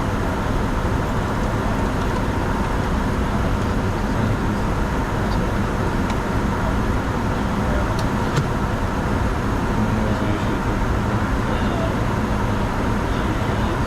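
Steady cockpit noise of a Bombardier Challenger 605 business jet in flight: the rush of airflow over the airframe mixed with engine noise at a constant level. Two faint clicks come about eight seconds in.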